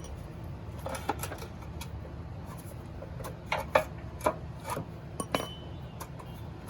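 Scattered metallic clinks and scrapes of hand tools, a wrench and socket knocking against engine parts while bolts are being removed, with one clink ringing briefly about five seconds in.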